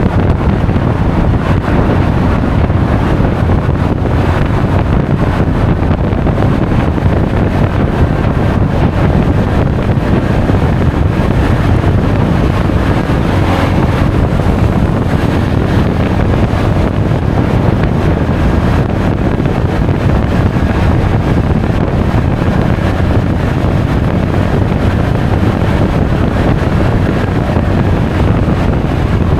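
Steady wind rushing over an action camera's microphone while riding a Honda Forza 350 scooter at speed, with the scooter's running and road noise under it and no breaks or changes.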